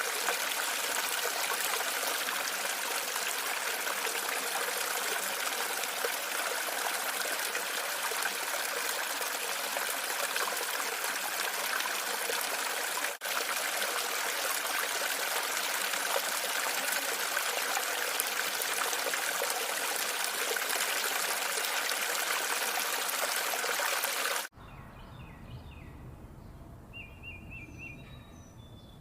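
Steady running water, trickling and splashing. About 24 seconds in it cuts off abruptly to a quieter outdoor background with small birds chirping.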